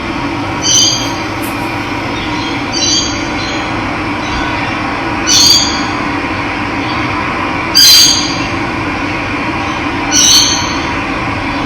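Steady rush of running water, with a bird giving a short call five times, roughly every two and a half seconds.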